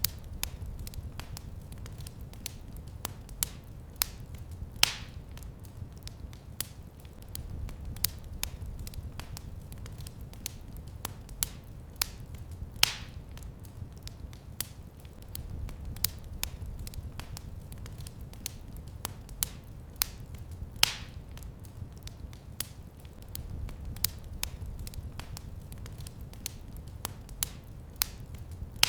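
Wood fire in a fireplace crackling steadily: a constant patter of small sharp crackles over a low rumble of the flames, with three louder pops about eight seconds apart.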